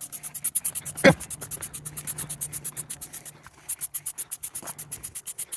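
Degreaser being sprayed onto a greasy tractor: a rapid, evenly pulsing hiss with a low hum under it, pausing briefly about three and a half seconds in. A short vocal sound comes about a second in.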